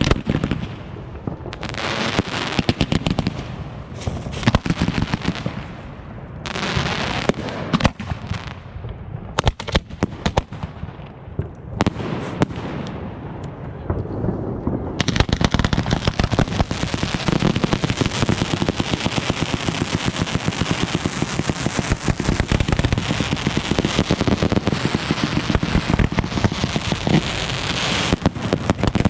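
Fireworks going off: runs of rapid bangs and crackling that thin out for a few seconds partway through, then build into a dense, continuous crackle from about halfway on.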